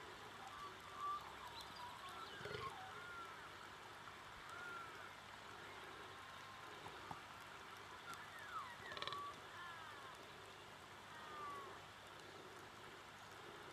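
Small birds singing faintly: many short arched chirps scattered throughout, over a faint steady outdoor hiss.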